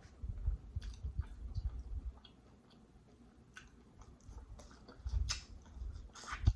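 A person chewing a mouthful of seafood mac and cheese close to the microphone: soft, uneven chewing with wet mouth clicks, a few sharper clicks near the end.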